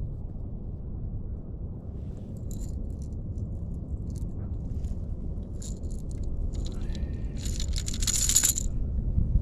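Lipless crankbait's internal rattles clicking and rattling in short bursts as the lure is handled, loudest and densest about eight seconds in, over a steady low rumble of wind on the microphone.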